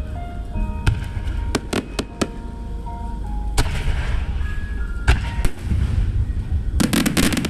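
Aerial firework shells bursting in a series of sharp bangs, with a rapid cluster of crackling bursts near the end, over a low rumble. A melody from music played with the display runs underneath.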